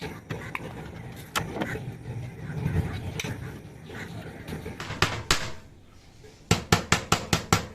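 Wire mesh being cut out with snips: scattered sharp metallic clicks as single wires are snipped, then a quick run of clicks at about five a second near the end.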